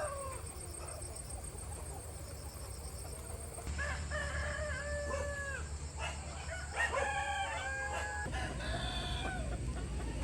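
Roosters crowing: long drawn-out calls from about four seconds in, several overlapping near the middle, over a low steady hum.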